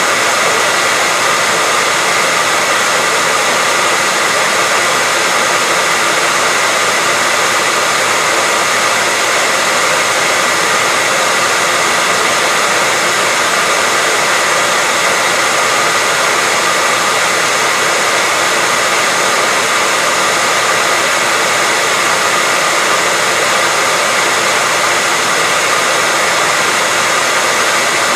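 Hair dryer blowing steadily, a constant even rush of air with a faint steady whine in it, unchanging throughout.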